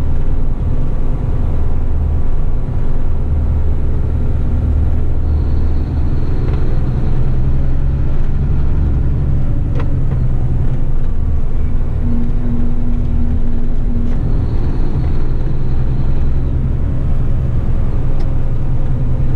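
Heavy rigid truck's diesel engine running steadily under way, with tyre and road rumble, heard from inside the cab. About two-thirds of the way through, a short steady low tone sounds for about two seconds.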